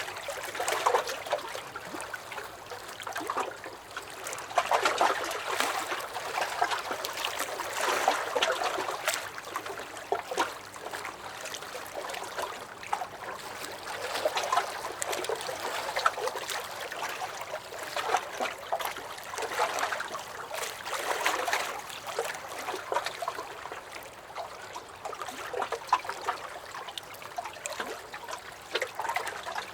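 Small lake waves lapping and sloshing against a dock, in irregular swells every few seconds with little splashes and gurgles between them.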